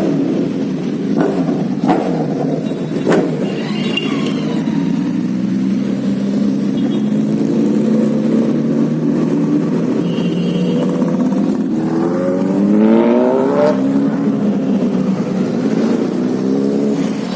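Car engine running in street traffic, its pitch rising as it accelerates about twelve seconds in, with a few sharp clicks in the first few seconds.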